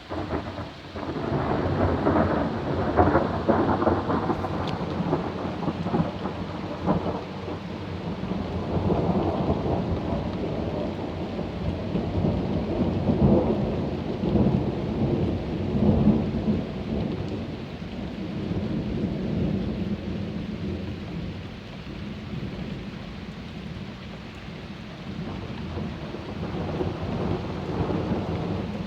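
Long roll of thunder: it starts suddenly and rumbles on with several louder swells, easing off over the second half.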